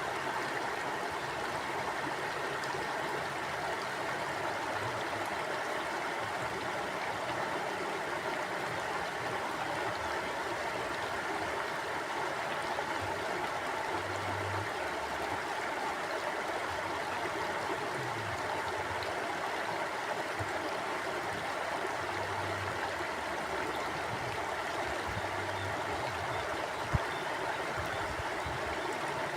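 Mountain stream flowing, a steady, unbroken rush of water, with one brief click near the end.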